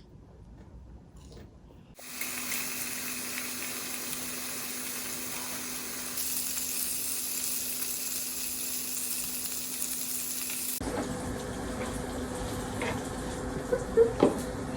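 A steady hiss that starts suddenly about two seconds in and cuts off abruptly near the end, followed by a few sharp clinks.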